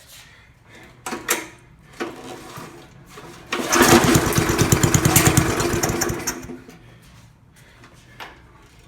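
Briggs & Stratton Classic 3.75 HP lawnmower engine pull-started, with a couple of short knocks before it catches about three and a half seconds in, runs for about three seconds and dies away. It runs only briefly on fuel primed into the cylinder through the spark plug hole.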